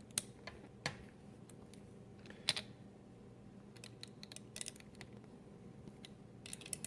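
Scattered small clicks and taps of hand tools and metal parts being handled: single sharp clicks every second or so early on, then a quick run of clicks near the end.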